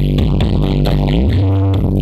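Loud electronic dance music with heavy, sliding bass, played through the Blizzard Audio 'sound horeg' carnival sound system.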